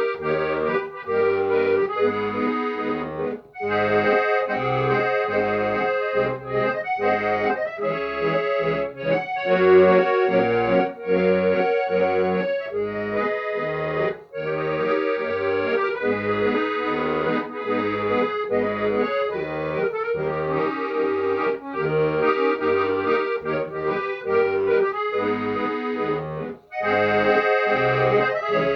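Accordion playing a melody of held notes over a steady, pulsing bass and chord accompaniment.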